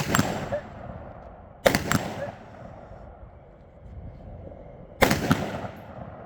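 Gunshots fired in quick pairs, a couple of seconds apart, each with a short echoing tail.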